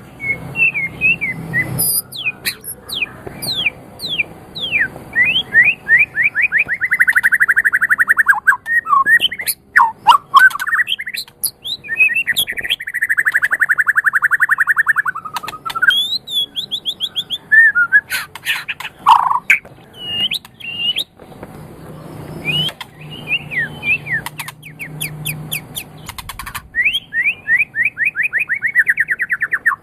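White-rumped shama (murai batu) singing a loud, varied song of sharp whistled notes, quick pitch glides and fast trills, with two long rapid trills about 7 and 13 seconds in.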